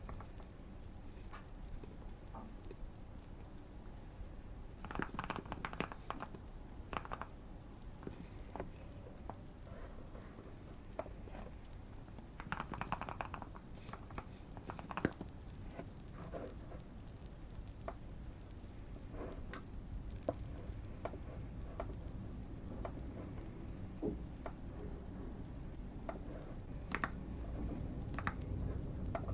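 Fireplace crackling with scattered small pops over a steady low hiss. About five and twelve seconds in come short bursts of typing on a custom-modded Keychron Q1 mechanical keyboard.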